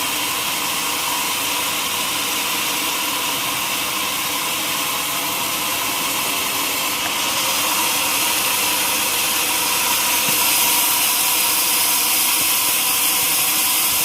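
Sawmill saw cutting through a log, a steady hissing noise that gets a little louder about halfway through.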